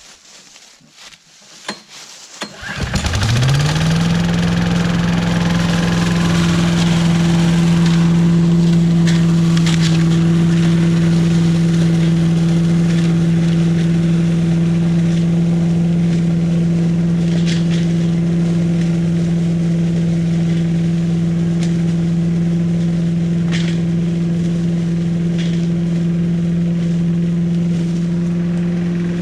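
The small 5.5 hp Briggs & Stratton engine of a Billy Goat Estate leaf vacuum starting up about three seconds in, rising quickly to speed, then running steadily at a constant pitch, with a few brief sharp clicks over it.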